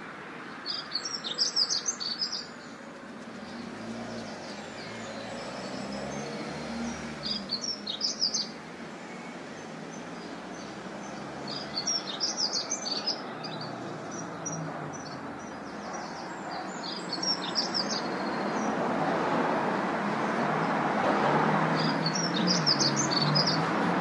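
Small bird chirping in short bursts of rapid high notes, five times about every five seconds, over a steady rush of wind and city noise that grows louder in the last few seconds.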